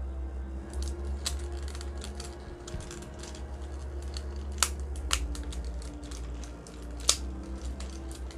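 Hard plastic parts of a Transformers Masterpiece MP-44 Optimus Prime figure being handled: repeated small clicks and taps as pieces are squeezed and a peg is worked into place, with three sharper clicks, two about halfway and one near the end.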